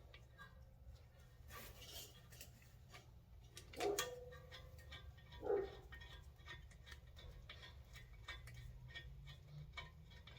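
Faint, scattered metallic clicks and ticks of hand tools working on a minivan's front brake caliper, with two louder clunks about four and five and a half seconds in.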